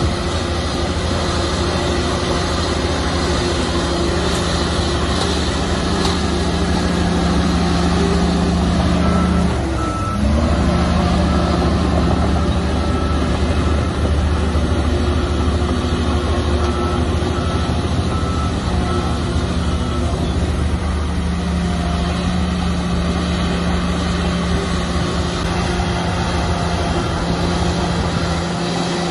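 Heavy diesel earthmoving machinery running steadily under load. About ten seconds in, the engine note dips briefly and comes back up. Through the middle of the stretch a reversing alarm gives a run of short high beeps.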